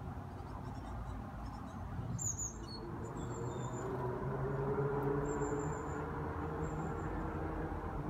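Short, high, thin calls of small garden birds, a cluster of them early and then single calls every second or two, over a low steady drone that grows louder from about halfway through.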